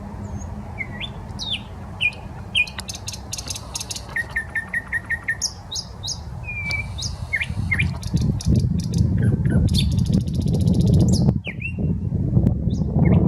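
Thrush nightingale singing: a varied song of sharp chips, fast runs of repeated notes and dry clattering rattles. Under it a steady low rumble of city traffic grows louder in the second half.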